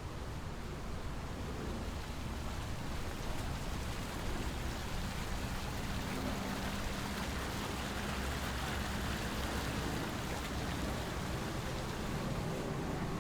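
Steady rushing of water, an even hiss with no breaks, with a faint low hum in the middle stretch.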